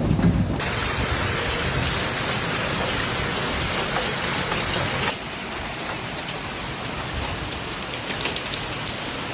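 Heavy rain pouring steadily, a constant hiss of drops on surfaces, with a cut to a slightly quieter downpour about five seconds in.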